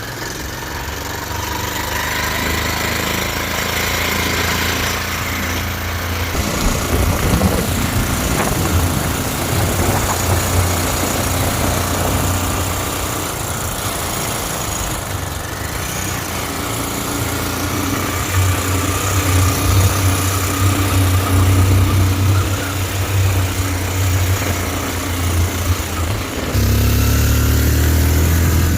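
Motorcycle engine running under way, its pitch rising and falling with the throttle over a steady hiss of road and wind noise. It gets louder a couple of seconds before the end.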